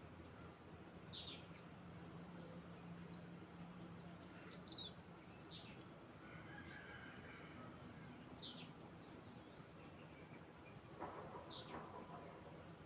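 Faint bird chirps: short, high calls that fall in pitch, coming every second or two over a quiet outdoor hiss, the clearest about four seconds in and again near the end.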